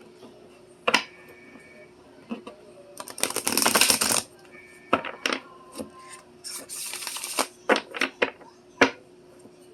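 Handling noise close to the microphone: scattered clicks and taps, with two short rustling, scraping bursts.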